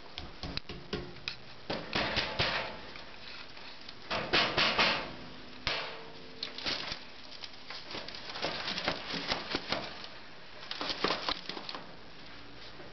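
A bird trapped inside a wood stove scrabbling and fluttering against the metal, in bursts of rapid taps and scratches: about two seconds in, the loudest around four and a half seconds in, and again near eleven seconds.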